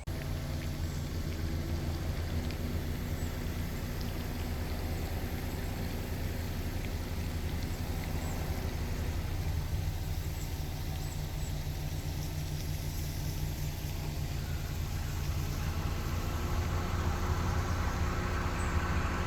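Car engine running steadily with a low hum, growing a little louder near the end.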